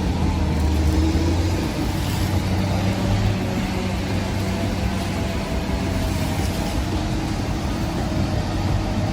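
Heavy diesel engine of a forestry machine running under load, with a strong low hum that eases about a second and a half in, then a steadier, lower-level running note.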